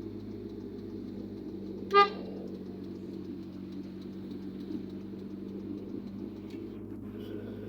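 One short vehicle horn toot about two seconds in, over the steady low hum of a running vehicle.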